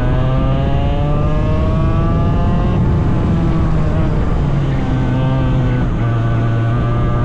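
Small 100cc racing engine running hard, its pitch climbing as it revs up, dropping sharply twice as the revs fall, then climbing again.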